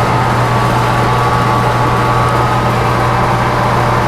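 Metal lathe running steadily with no cut being taken, its roughing passes just finished: an even hum with a faint higher steady tone.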